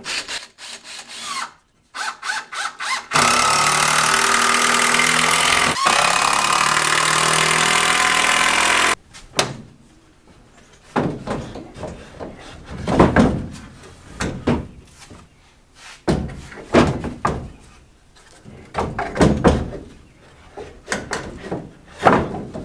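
A handheld power tool runs loud and steady for about six seconds, then stops abruptly. Afterwards, scattered wooden knocks and clatter as boards and pieces are handled.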